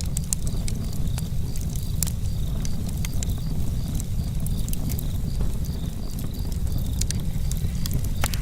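Campfire crackling: irregular sharp pops and snaps over a steady low rumble, with faint high chirps repeating in the background.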